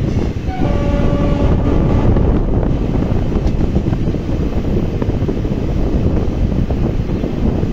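Moving train heard from on board: a steady, loud rumble of the running train, with wind on the microphone. A brief pitched tone sounds about a second in.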